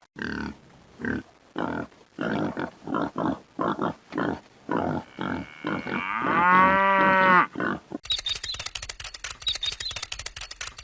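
A cow mooing: a run of short calls, then one long, drawn-out moo about six seconds in. About eight seconds in, a fast, even mechanical clatter starts.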